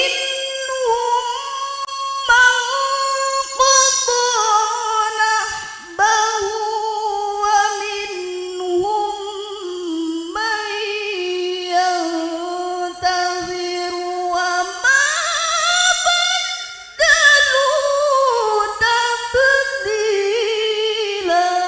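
A woman chanting Qur'an recitation in the melodic tilawah style, holding long ornamented notes in a high voice, phrase after phrase with short breaths between. The last note dies away in reverberation.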